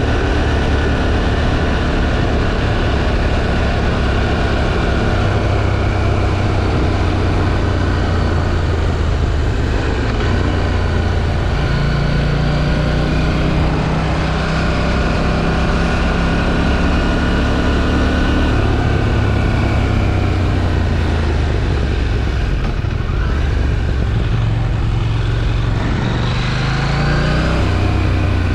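KTM 790 Duke's parallel-twin engine running through a stock exhaust on the move, its pitch shifting with throttle and gear changes and climbing near the end as the bike accelerates, over a steady rush of wind and road noise.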